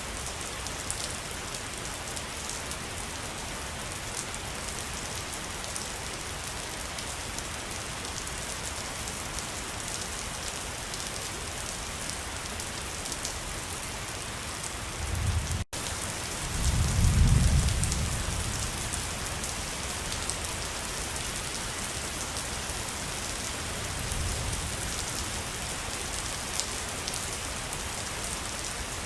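Steady rushing hiss of falling water, full of fine splashing crackle. A little past halfway the sound cuts out for an instant, then a deep low rumble swells for a couple of seconds and fades; a weaker rumble comes later.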